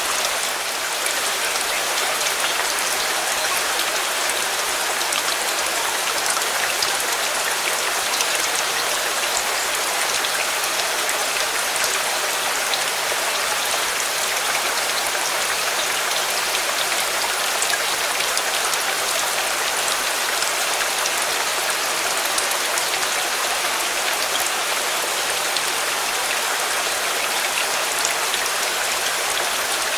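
Steady, heavy rain falling, with a dense patter of individual drops hitting a surface.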